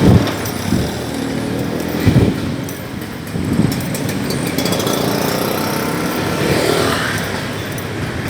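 City street traffic with motorcycles passing close by, plus a few dull thumps: one right at the start, one about two seconds in and one about three and a half seconds in.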